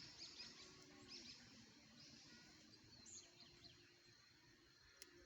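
Faint outdoor ambience with small birds chirping: short, high chirps scattered throughout over a quiet background hiss.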